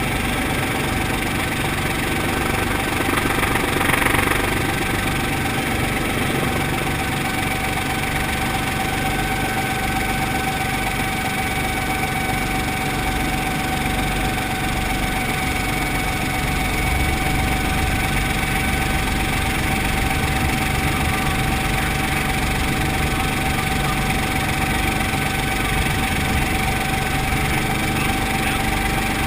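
Brantly B2B helicopter's piston engine and rotor running steadily, with a steady high tone over the engine sound and a brief swell about four seconds in.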